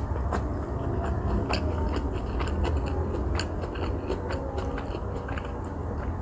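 Close-up chewing of a fresh Vietnamese spring roll: rice paper with shrimp, crab stick, cucumber, carrot and lettuce, giving many small wet crunches and mouth clicks over a steady low hum.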